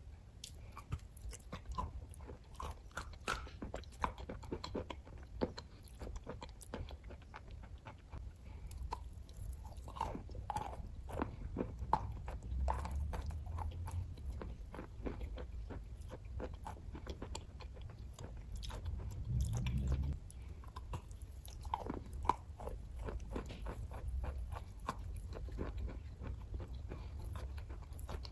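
Close-up chewing and biting of kaju katli cashew fudge: a steady run of small wet mouth clicks, with a brief low swell a little after two-thirds of the way in.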